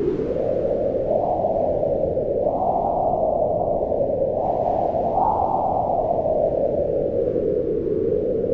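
Howling mountain wind: a steady low rush that swells and rises in pitch in slow gusts, rising about a second in and peaking around the middle, then sinking again toward the end.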